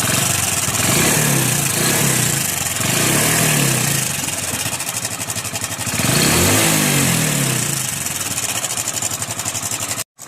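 Hero iSmart 110 motorcycle's single-cylinder engine running and revved three times, with a fast rattling clatter from a loose, worn timing chain. The sound drops out for a moment near the end.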